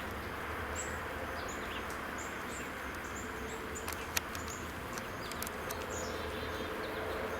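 Small birds giving a series of short, very high, thin chirps, repeated irregularly over a steady low background hum.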